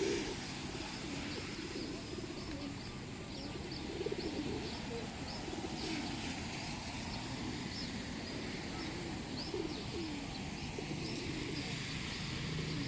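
Pigeons cooing again and again in low, bending calls, with sparrows chirping in many short, high notes among them.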